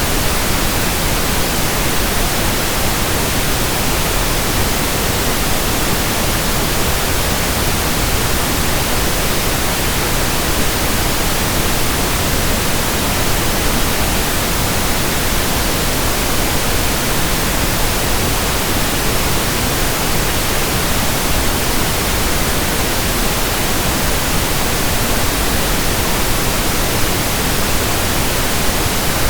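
Steady, unchanging pink noise: an even hiss spread across all pitches, with no breaks or events.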